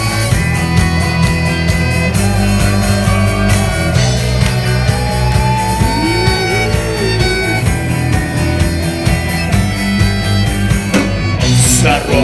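Instrumental intro of a rock song: drums keeping a steady beat under guitars, with a gliding, bending melody line in the middle. Near the end the band pauses briefly and comes back in on a bright crash.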